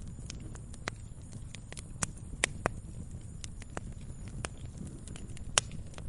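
Campfire burning with irregular sharp crackles and pops of wood over a steady low rumble of flame. There are louder pops about two seconds in and again near the end.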